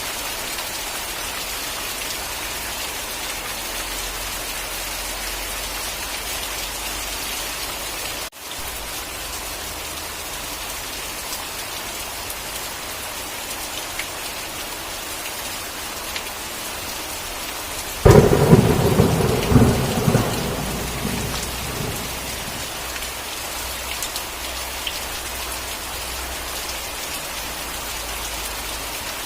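Steady heavy rain hissing. About two-thirds of the way through, a sudden clap of thunder breaks in, loudest at first, then rumbles away over a few seconds.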